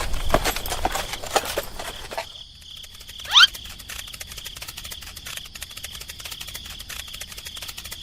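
A steady high insect trill with fine rapid ticking, over irregular clicks and patter that fade out about two seconds in. About three and a half seconds in there is one short, loud rising chirp.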